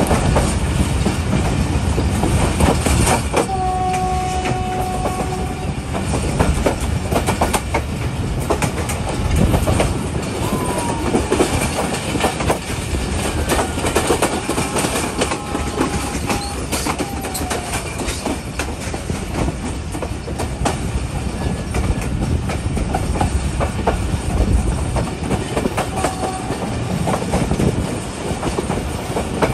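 Passenger express train running along the line, its wheels clattering over rail joints with many sharp clicks. A steady horn-like tone sounds for about two seconds a few seconds in.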